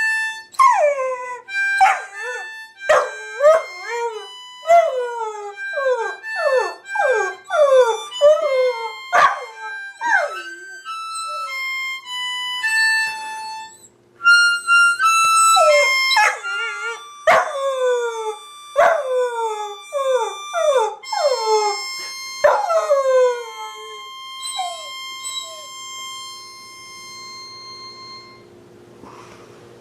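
Labrador puppy howling in a run of short cries that fall in pitch, about two a second, with a break about halfway through. Behind them plays music with long held notes, which fades near the end.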